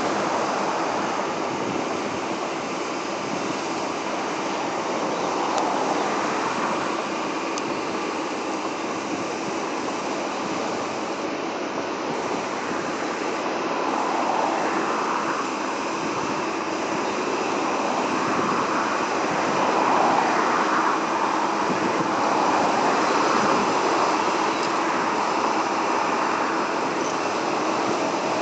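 Sea waves washing against a seawall: a steady rushing noise that swells and eases every few seconds.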